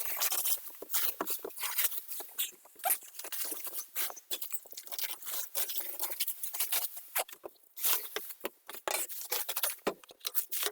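Plastic protective film being pulled down and crumpled, with a dense, irregular crinkling and crackling as construction dust and debris are gathered up in it.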